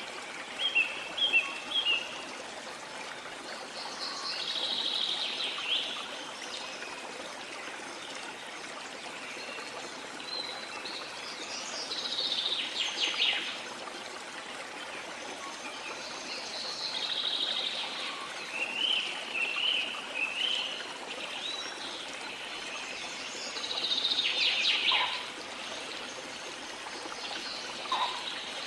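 Steady wash of sea water under songbirds singing short, repeated phrases every few seconds.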